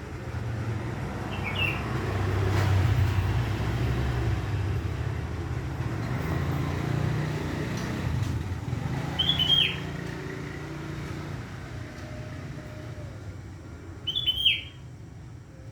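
Sooty-headed bulbul (kutilang) giving three short, bright calls, about a second and a half in, around nine seconds in and near the end. Behind them runs the steady low rumble of passing vehicles, heaviest in the first half.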